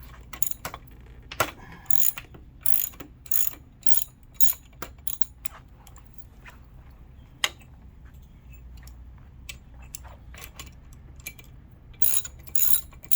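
Ratchet wrench on a 13 mm nut clicking in runs as it backs off the loose tiller-mount nut of a folding mobility scooter. The clicks come quickly for the first few seconds, thin out in the middle, and pick up again near the end.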